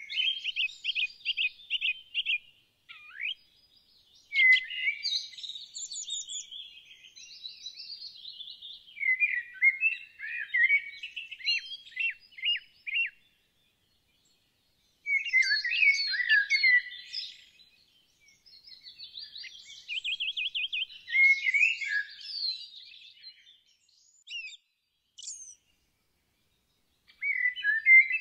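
Songbirds singing: phrases of sharp chirps and rapid trills, separated by silent gaps of a second or two, with a few short isolated notes near the end.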